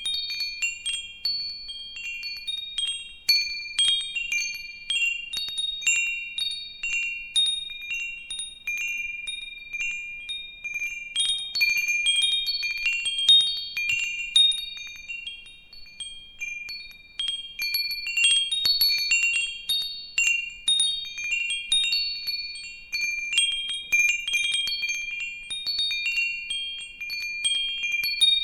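Metal wind chimes ringing, struck irregularly and often, with several high clear tones overlapping and ringing on.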